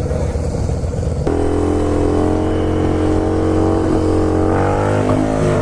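Motorcycle engine running while riding. About a second in the sound changes abruptly to a louder, steadier engine note, which then holds and slowly falls in pitch.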